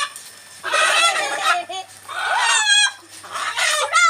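Chickens clucking and calling in three short bursts of wavering calls.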